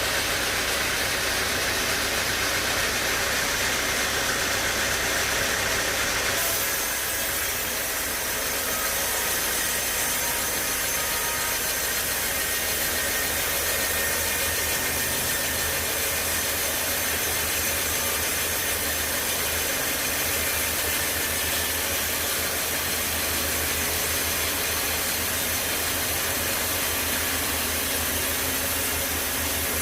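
Sawmill machinery running steadily, with the hiss of the saw in the wood. About six seconds in the high hiss drops away and a lower machine hum carries on.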